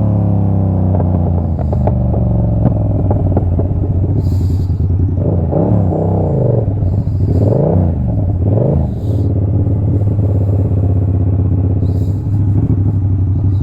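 2024 Yamaha R7's parallel-twin engine running steadily while the bike is ridden, with road and wind noise over it. In the middle the sound wavers up and down in pitch a few times.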